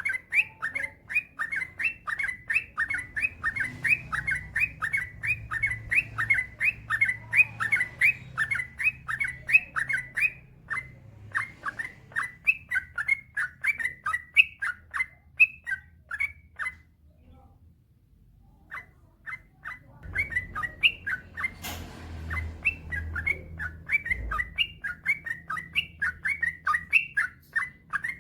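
Yellow-vented bulbul (trucukan) singing in long, fast runs of chirping notes, about three a second. The song breaks off for about two seconds past the middle, then starts again.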